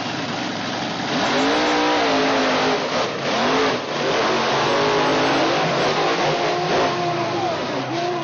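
Monster truck engine revving hard, its pitch rising and falling again and again over a loud, rough roar.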